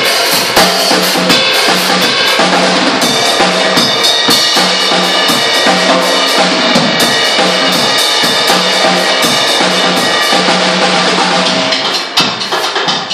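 A drum kit played in a steady run of hits over music. The drumming drops off about twelve seconds in.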